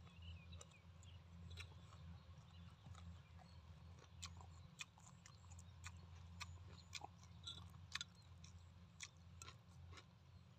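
A person chewing braised pork close to the microphone, with scattered small wet clicks and smacks of the mouth, over a faint steady low hum.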